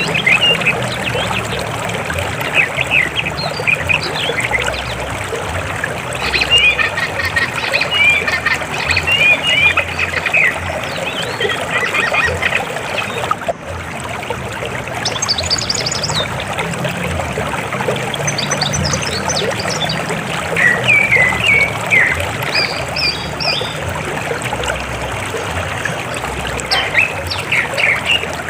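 River water flowing steadily, with birds chirping on and off over the rush of the water.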